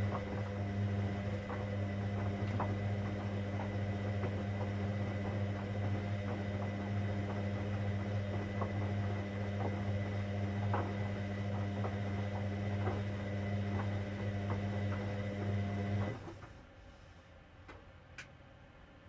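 Hoover Dynamic Next washing machine humming steadily with scattered light clicks, cutting off suddenly about sixteen seconds in, followed by a single click near the end.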